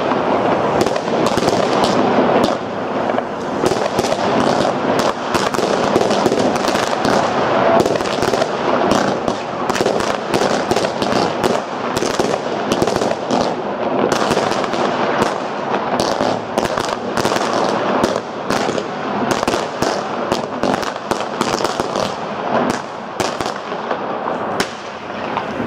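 Fireworks in a dense, unbroken barrage: many sharp bangs a second over a constant crackling rumble.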